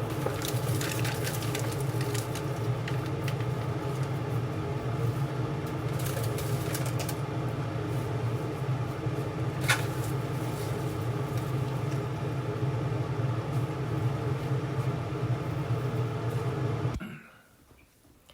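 Steady hum of a kitchen appliance's motor, with a few light clinks, cutting off suddenly near the end.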